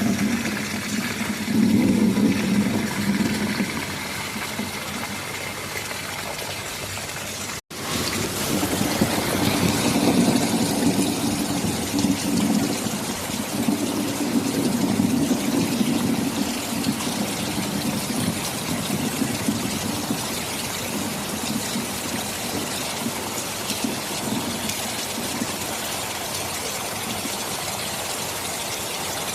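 Heavy rain falling steadily, with a low rumble underneath that swells twice. The sound cuts out completely for an instant about 8 seconds in.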